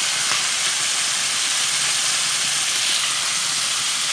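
Chicken pieces and cauliflower frying in sunflower oil in a pan, giving a steady sizzle with fresh curry leaves and coriander leaves just added.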